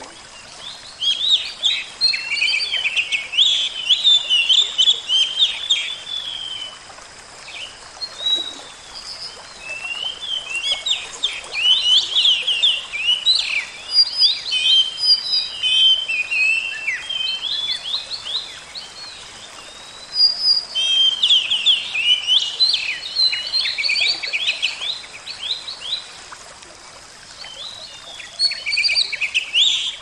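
Songbirds chirping and twittering in several bouts of rapid calls, each a few seconds long, with short pauses between, over a faint steady hiss.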